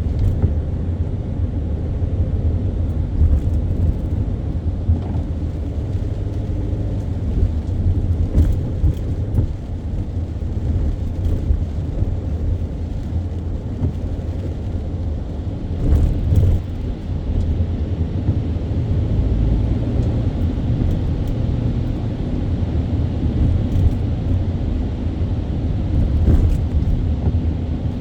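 Car being driven in city traffic: a steady low rumble of engine and tyres on the road, with a few faint clicks.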